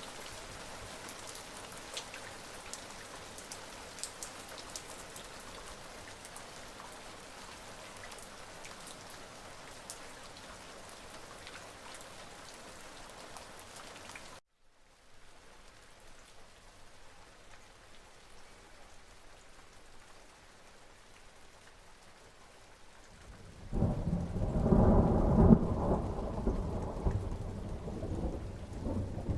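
Steady rain with distinct drops ticking at first, cutting off suddenly about halfway into a quieter, softer rain. Near the end a loud, low thunder rumble rolls in and is the loudest sound.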